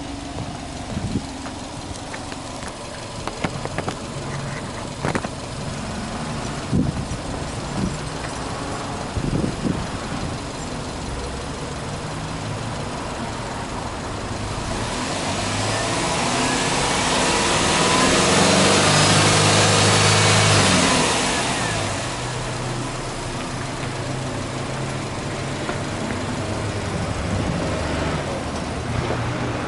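Subaru Impreza WRX STI's turbocharged flat-four engine idling, with a few knocks early on. About halfway through it is free-revved: a long climb in revs, held for a few seconds, then it drops back to a steady idle.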